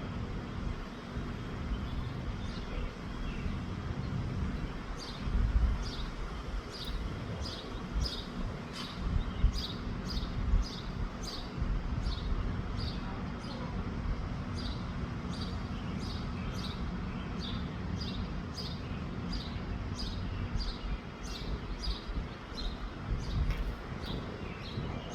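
Wind buffeting the microphone in gusts, with a bird chirping over it in short, regular chirps about twice a second for most of the stretch.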